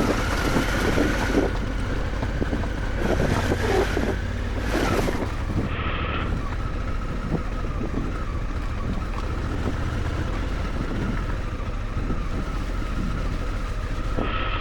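Motorcycle engine running steadily on a dirt track, with wind buffeting the microphone and a few brief louder swells in the first few seconds.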